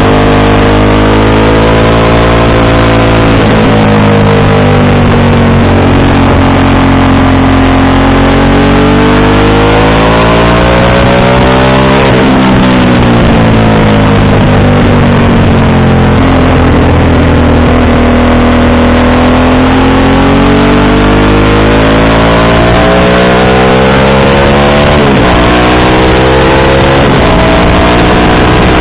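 Motorcycle engine running loud through a JC aftermarket exhaust while riding, its pitch falling and rising in several slow swells as the throttle is closed and opened.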